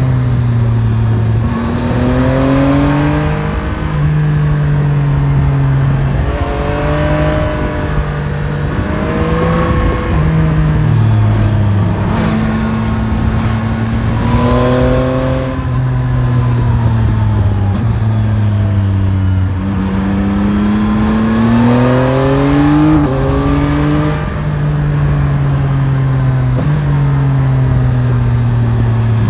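Yamaha Tracer 9 GT motorcycle's 890 cc CP3 three-cylinder engine under way, its revs climbing and dropping again and again as the bike accelerates and slows, with a few sudden steps in pitch.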